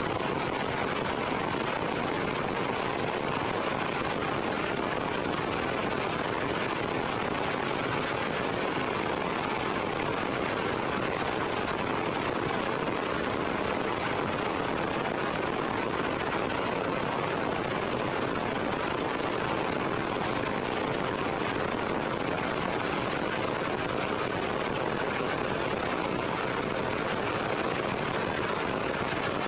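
Heavy rain falling on forest trees, a steady, even hiss that never lets up.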